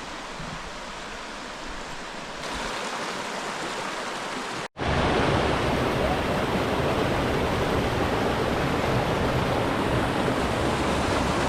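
A river or stream rushing steadily. It cuts off for an instant just before five seconds in and comes back louder.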